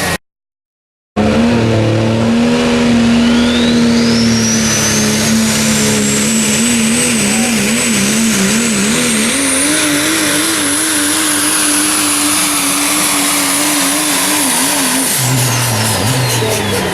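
Diesel pulling truck under full throttle: the engine runs high with a wavering pitch while the turbocharger whine climbs steadily for several seconds to a high whistle and holds there. Near the end the whine and engine drop away as the throttle comes off at the end of the pull. A brief silent gap comes just before the run starts.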